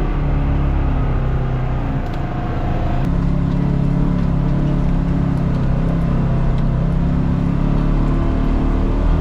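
Engine of a Polaris Xpedition four-seat side-by-side running under way on a trail: a steady hum that sags briefly about two seconds in, then holds an even pitch.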